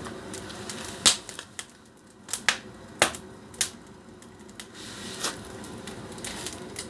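Wood fire crackling in a brick fireplace, with irregular sharp pops, several of them loud, over a low steady burning hiss.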